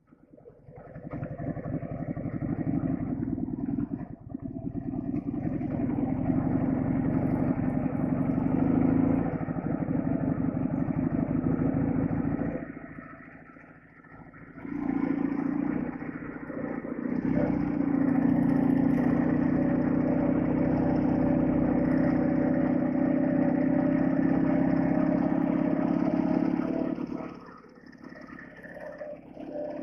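Heavy flat-twin motorcycle engine running under way. It eases off twice, once about halfway through and once near the end, then pulls again.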